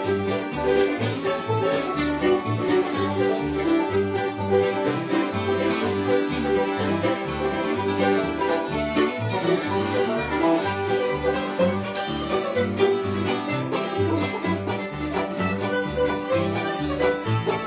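Bluegrass band playing an instrumental: banjo picking over strummed guitar, with a bass thumping out low notes on the beat.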